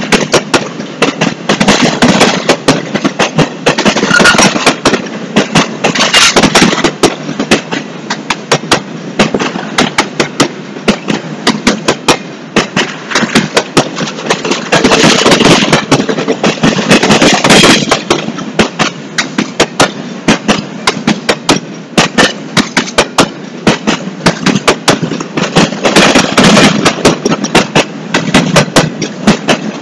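Freight train of empty intermodal well cars rolling past close by: a fast, irregular, continuous clatter of steel wheels over the rail joints and rattling empty car frames over a steady rolling rumble, swelling and easing as the cars go by.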